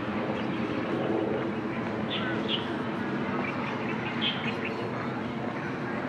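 Birds chirping: short, high calls in two pairs, about two seconds and about four seconds in, over a steady background din.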